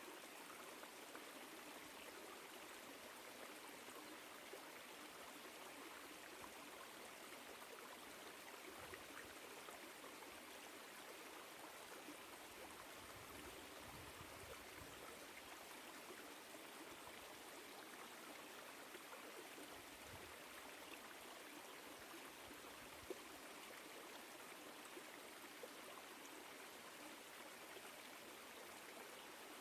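Small woodland stream flowing, a faint steady rush of water, with one brief click about three-quarters of the way in.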